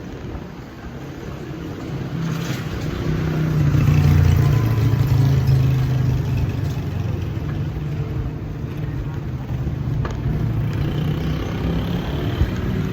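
A motor vehicle's engine running close by, growing louder about two seconds in and holding steady, over street noise.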